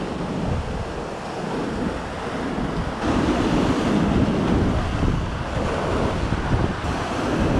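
Sea surf washing on a rocky shore, with wind buffeting the microphone; it grows louder about three seconds in.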